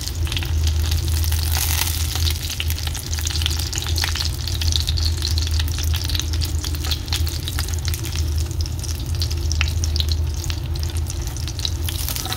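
Panko-breaded yellowtail kingfish pieces shallow-frying in hot oil in a frying pan, sizzling with many small crackles and pops. A steady low hum runs underneath.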